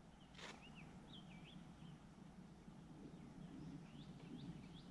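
Near silence with faint bird song: short warbling whistles, in two spells, over a low steady background hush. One brief faint noise comes near the start.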